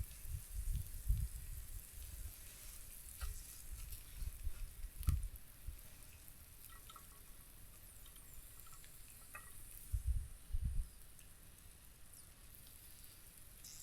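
Food frying in a pan with a faint, steady high sizzle. A few low bumps come at the start, about five seconds in and twice around ten seconds.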